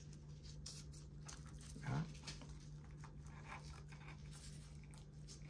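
Faint eating sounds, soft chewing and breathing through the mouth, over a steady low hum, with a short murmured voice sound about two seconds in.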